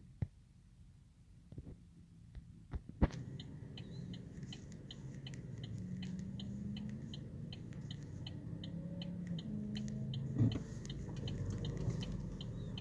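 A few sharp clicks, then a steady ticking about twice a second over a low hum that builds gently.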